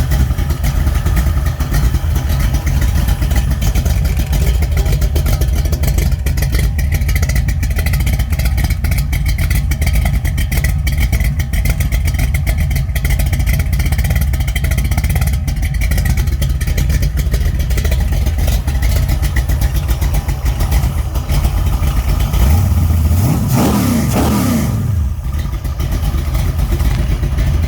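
Stroked 408 small-block Mopar V8 with a Comp Xtreme Energy hydraulic roller cam, running steadily on an engine stand during break-in. About 23 seconds in it is revved once, the pitch rising and falling back. Its adjustable rocker arms are a little on the noisy side.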